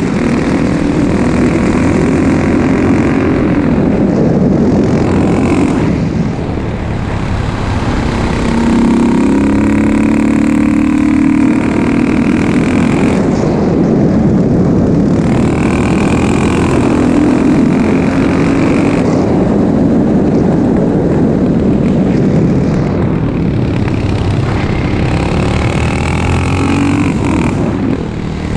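2004 KTM 640 SMC's single-cylinder LC4 engine, breathing through an exhaust with a dB killer fitted, running loudly with its revs rising and falling several times.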